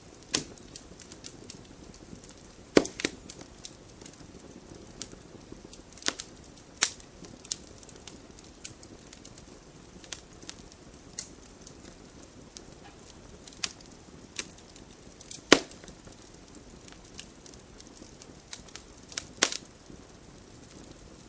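Wood fire burning in a fireplace: a steady low hiss with frequent small crackles and several sharp pops from the burning wood, the loudest about three seconds in, near fifteen and a half seconds and near nineteen seconds.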